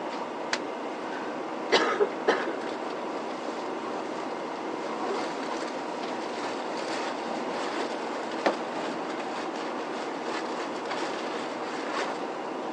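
Inside the cabin of an Isuzu Erga diesel city bus standing at a stop: a steady idling rumble. A few sharp clicks and knocks come through it, a cluster about two seconds in and single ones later.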